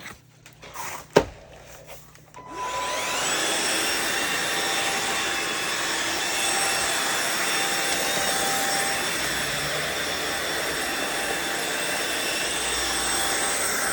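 Riccar R70 wet/dry floor washer's suction motor: a sharp click about a second in, then the motor spins up with a rising whine about two and a half seconds in and runs steadily and loudly, which the owner takes to be the machine drawing up water left in its tube.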